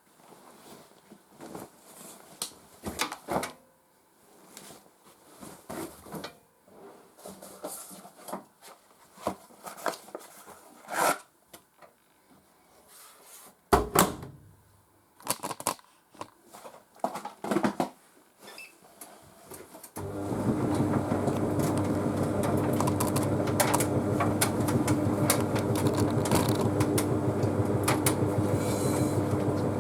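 Laundry being handled and loaded into a Bosch Series 6 heat pump tumble dryer: scattered rustling, clicks and knocks, with one loud knock about halfway. About two-thirds of the way in the dryer starts its cycle and runs with a steady hum.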